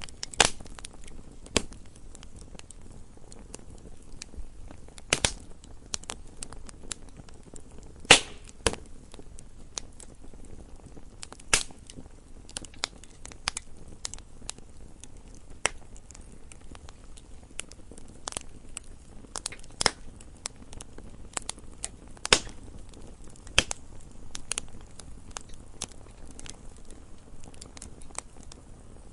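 Crackling wood fire: irregular sharp pops and snaps, a few much louder ones, over a low steady hiss.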